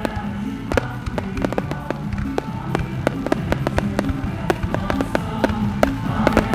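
Fireworks going off in a dense string of sharp pops and crackles, several a second, over music with steady held notes.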